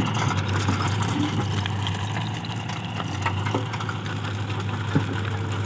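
Heavy vehicle's diesel engine running steadily at low revs, with a few faint knocks.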